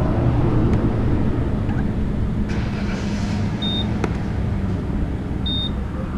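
Steady low rumble of a camper van's engine and road noise, with two short high beeps, one in the middle and one near the end.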